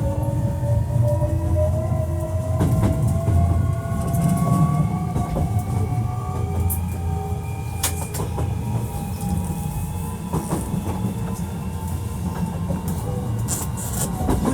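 Hankyu 1300 series train running: the Toyo IGBT inverter and traction motors give a whine that rises slowly in pitch as the train gathers speed and fades about halfway through, over a steady rumble of wheels on rail with a few sharp clicks. This unit is noted for an unusual running sound.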